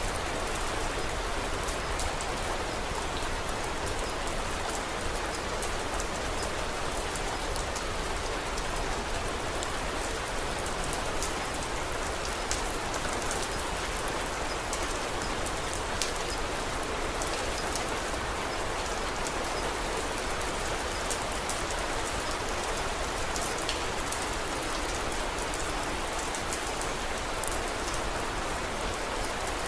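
Steady rain falling, an even hiss with many scattered sharp ticks and crackles on top.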